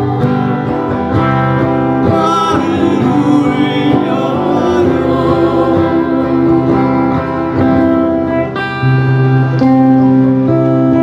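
Music: an acoustic guitar playing a slow ballad accompaniment, with other sustained instrument tones.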